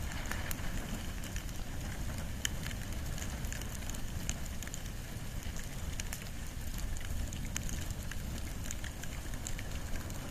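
Wood and bamboo fire burning, with frequent sharp crackles and pops scattered over a steady hiss and low rumble.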